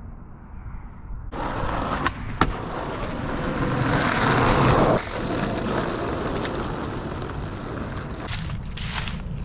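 Skateboard wheels rolling over pavement, starting abruptly about a second in, with two sharp clacks soon after and a louder stretch that drops off suddenly about halfway through.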